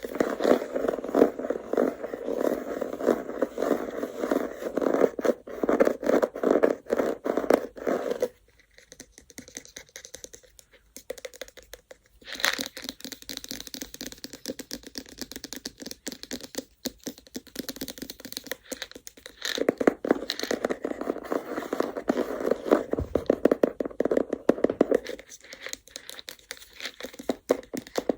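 Baduk (Go) stones clattering together in dense, rapid clicks. The clatter stops for a few seconds about eight seconds in, gives way to lighter scratchy handling, then comes back dense about twenty seconds in.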